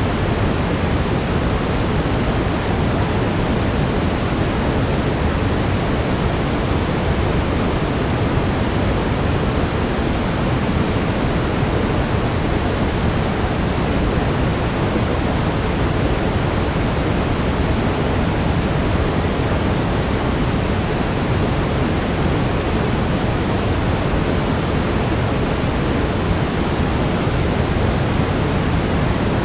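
Steady synthetic brown noise: an even, unchanging hiss weighted toward the low end, fading in the highs.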